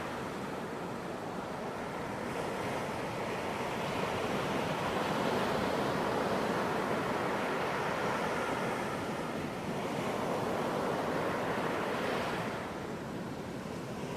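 Ocean surf: waves breaking and washing up a beach in a continuous rush that swells through the middle and eases near the end.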